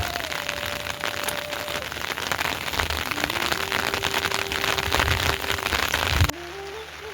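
Heavy rain falling, a dense spray of drops, with a thin held tone faintly over it. Just after six seconds the sound drops suddenly to quieter rain.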